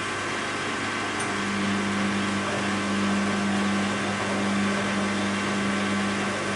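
Bosch WAB28220 front-loading washing machine running its 600 rpm spin: a steady motor hum, with a low tone that comes in about a second in and holds.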